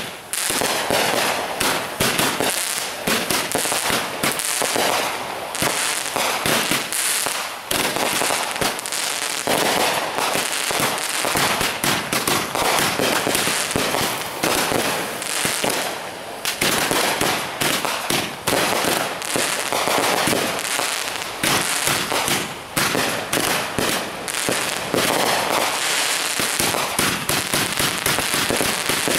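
Consumer aerial fireworks going off without pause: a dense, continuous run of bangs and crackling star bursts.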